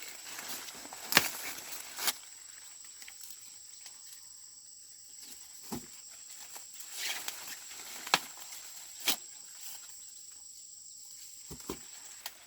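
Rustling of dry corn plants with several sharp snaps, the loudest just after a second in and about 8 and 9 seconds in, as corn is harvested by hand. A steady high insect drone runs underneath.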